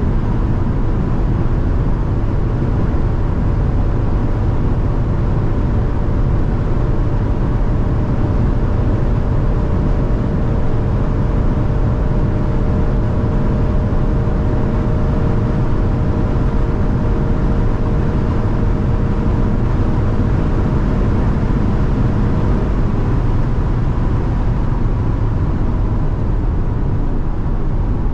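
Maserati Grecale Trofeo's twin-turbo V6 SUV driving at a steady high speed: a dense rush of road and wind noise with an even engine drone that holds one pitch. The engine tone drops away about 22 seconds in while the road noise carries on.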